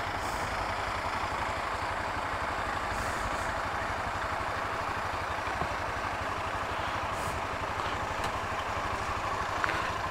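Honda CB Twister 250's single-cylinder engine running steadily at low revs, its firing pulses even throughout, over a steady background hiss.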